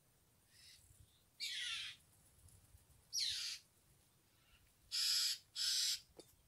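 Wild birds calling: two short calls that each slide downward in pitch, then two harsher, noisier calls near the end.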